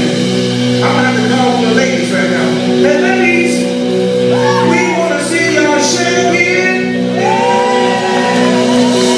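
Live blues band playing, with a steady held chord underneath and a voice singing or wailing wordless lines over it; one long held note comes about two-thirds of the way through.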